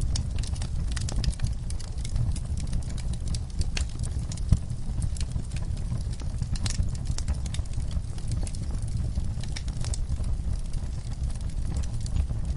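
Wood fire crackling in a fireplace: a steady low rumble of flames with frequent small pops and snaps, and one sharper pop about four and a half seconds in.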